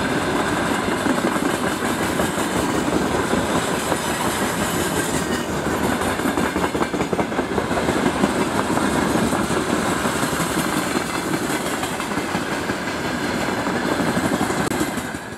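Freight train hauled by a VL82M electric locomotive rolling past: a steady, loud rumble of wheels on rail with the clickety-clack of wagons over rail joints. The sound cuts off abruptly near the end.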